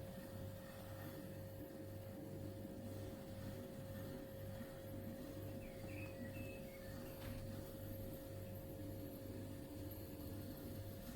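Subcold mini fridge running: a low electrical hum that pulses about twice a second, under a steady higher tone.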